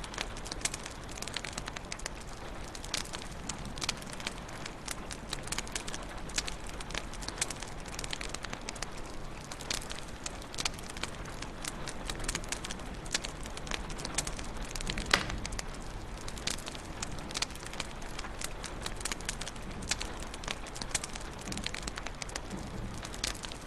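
Wood fire crackling steadily in a fireplace, with dense irregular snaps and pops over a soft hiss and one louder pop about fifteen seconds in.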